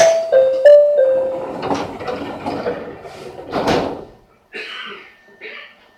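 A short four-note electronic chime at the train doors, the notes stepping down and up. It is followed by several thuds and rattling as the train's doors close.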